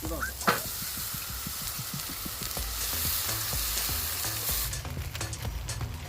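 Ribs sizzling as they cook, a steady hiss with scattered crackles and one sharp knock about half a second in; the hiss cuts off about three-quarters of the way through.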